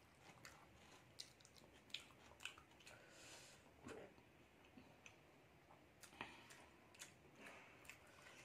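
Faint chewing of a deep-fried egg devil, a breaded egg chop eaten by hand. Scattered, irregular short mouth clicks run through it.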